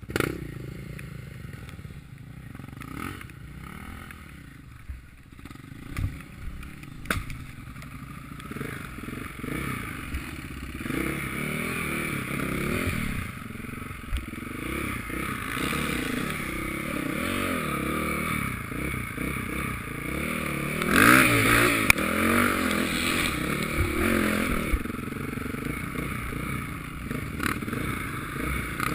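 Motocross bike engines revving and passing, their pitch rising and falling. The engines get louder from about ten seconds in and are loudest a little past the middle. A few sharp knocks come in the quieter first part.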